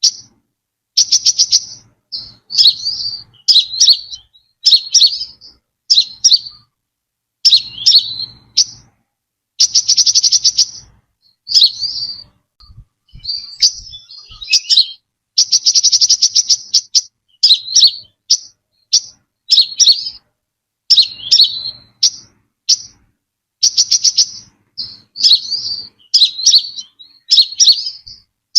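Brown-throated sunbird singing: a run of short, high chirping phrases about once a second, broken several times by a rapid buzzing trill lasting about a second.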